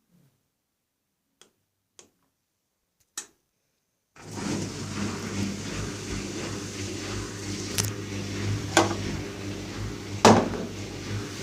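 AEG washing machine starts running about four seconds in: a steady hum with a few sharp knocks, the loudest near the end. Before it starts there are three faint clicks.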